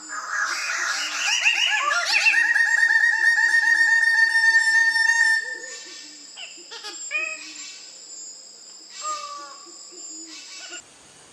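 A bird of paradise calling: a loud run of rapid, rising repeated notes that settles into a fast, steady trill for about five seconds, followed by a few shorter, quieter calls. A faint regular pulsing sounds underneath, and it all cuts off just before the end.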